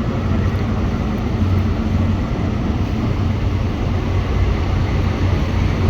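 Diesel engine of Network Rail's New Measurement Train, an HST with Class 43 power cars, running with a steady low drone.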